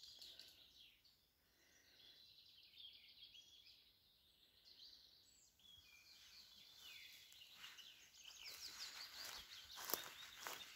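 Faint birdsong: many short chirps and trills, with a few rustles near the end.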